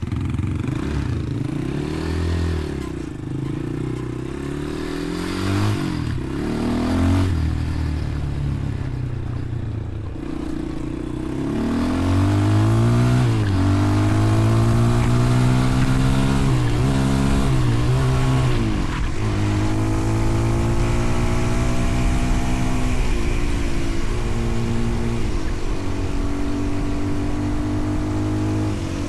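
Motorcycle engine running under way, its pitch rising and then dropping again and again as the rider works the throttle and shifts gears. It gets louder about twelve seconds in.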